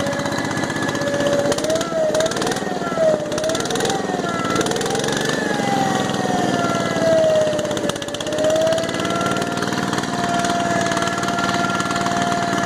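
Engine of a 1967 Case 155 lawn tractor running shortly after a cold start, its pitch wavering up and down unevenly for several seconds before settling at a steady speed.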